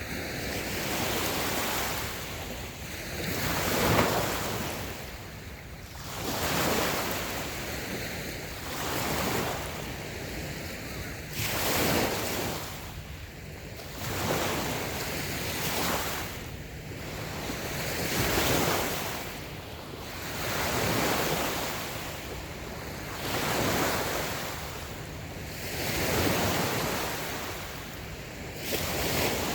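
Light waves washing onto a sandy beach, a new wash swelling and fading every two to three seconds.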